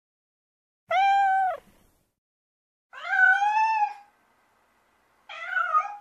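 A cat meowing three times, high-pitched, about two seconds apart; the middle call is the longest, rising and then falling.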